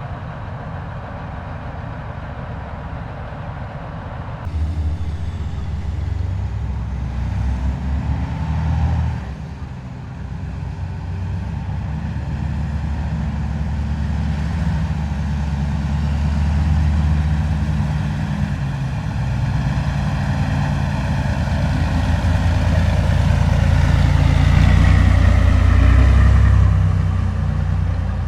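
Heavy military vehicles driving past with a steady low diesel engine rumble. It steps up suddenly about four seconds in, dips briefly, then builds as vehicles come closer, is loudest a few seconds before the end and falls off sharply.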